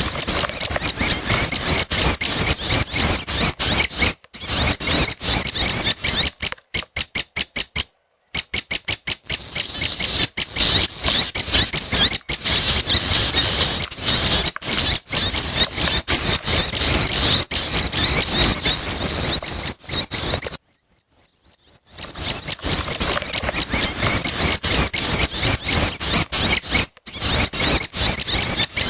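Young prenjak chicks giving their begging calls: a dense stream of rapid, high-pitched squeaky notes. There are stuttering runs of evenly spaced notes and short breaks, with a pause of about a second and a half about two-thirds of the way in.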